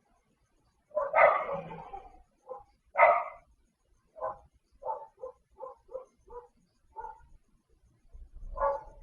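A dog barking: a couple of loud barks, then a run of shorter, quieter barks at about two a second, and one more bark near the end.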